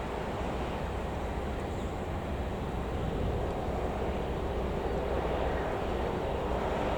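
Boeing 747-400 jet engines running, a steady low rumble with a hiss above it.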